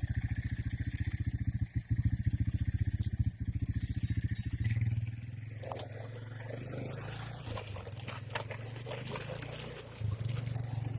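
ATV engine idling with a fast, even thumping, changing to a smoother, steadier running sound about five seconds in.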